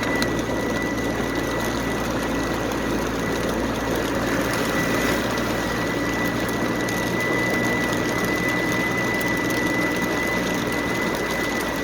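Heavy rain pelting the car and tyre and engine noise, heard inside the moving car's cabin as a steady dense hiss. A thin steady high whine runs through it.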